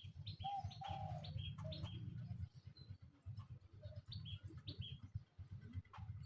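Birds chirping, short high notes repeated again and again, with a few lower calls, over a low uneven rumble.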